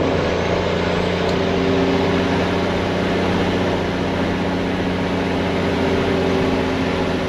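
Semi truck's Detroit diesel engine running steadily under way, a deep, even engine note with its exhaust pipes plainly heard.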